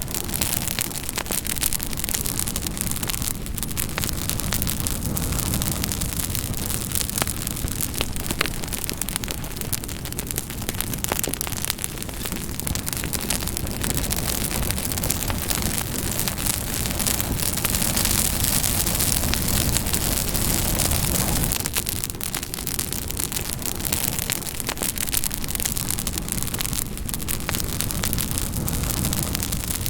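Campfire burning: dense crackling and popping of burning wood over a steady low rush of flames.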